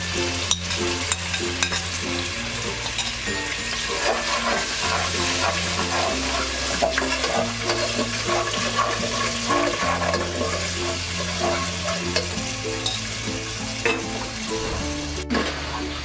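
Wet masala of beaten yogurt and ground onion, ginger, garlic and chilli pastes sizzling as it fries in hot oil in a kadai, stirred with a spatula that clicks and scrapes against the pan. Background music with a low bass line plays underneath.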